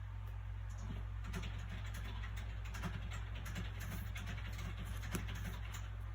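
Soft paper rustling and small clicks from a book being handled, its pages shifting, in a quick irregular patter over a steady low background hum.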